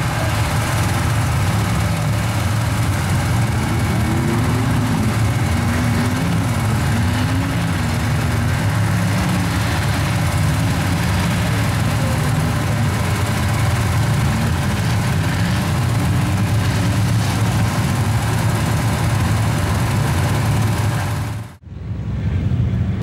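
Truck engine running steadily with a low, heavy rumble. The sound cuts out abruptly for a moment near the end.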